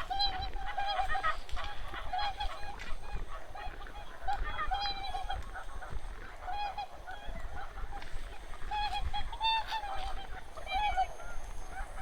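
A flock of wild geese honking, with many short calls overlapping and repeating throughout.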